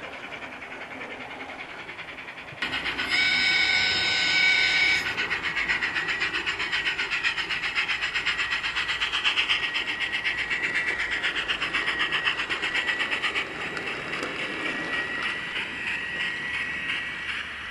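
Sound card of a Gauge 1 radio-controlled J94 model steam locomotive: a steam whistle blows for about two seconds, then the simulated exhaust chuffs steadily at about four beats a second, growing quieter near the end.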